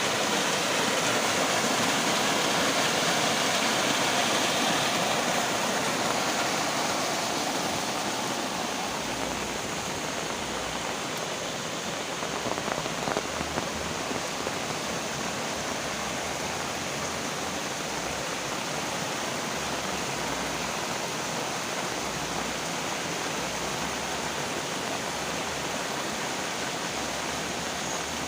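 Heavy rain falling steadily, a dense even hiss. It is a little louder for the first several seconds, then eases slightly, with a few brief louder patters about twelve seconds in.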